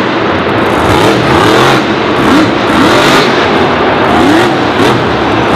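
Loud car engine revving, with short rising-and-falling whines over a dense rushing noise.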